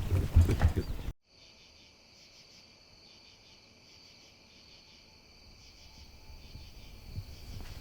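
A loud call that rises and falls in pitch cuts off abruptly about a second in, giving way to a steady chorus of crickets chirping, with a faint low rumble building near the end.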